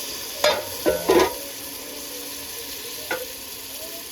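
Spiced tomato masala sizzling in hot oil in a pan while a spatula stirs it, knocking sharply against the pan a few times in the first second and a half and once more about three seconds in.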